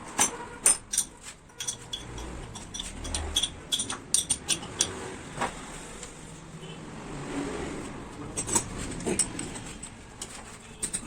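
Small metal parts and tools clicking and clinking as a JCB Delphi diesel fuel pump is worked on by hand: irregular sharp taps in clusters with short pauses between.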